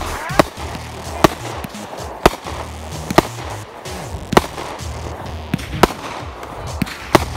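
Aerial fireworks bursting overhead: a string of about seven sharp bangs, roughly a second apart.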